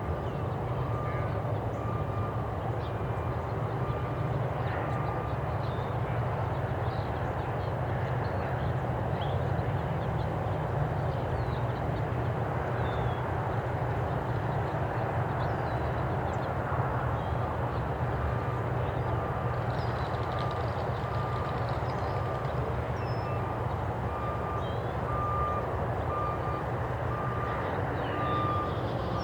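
Steady low rumble of traffic, with a vehicle's reversing alarm beeping at an even rate at the start and again from about two-thirds of the way in. Faint high chirps sound over it now and then.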